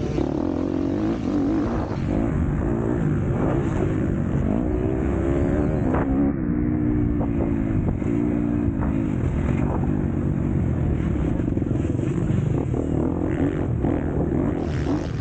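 MX2 motocross bike's engine running hard, its pitch rising and falling with the throttle over a dense low rumble, with scattered short clatters.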